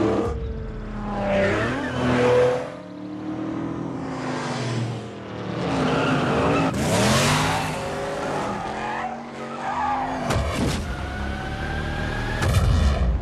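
Muscle car engine revving hard, its pitch climbing and dropping again and again as it accelerates and shifts, with tyres squealing and skidding in between.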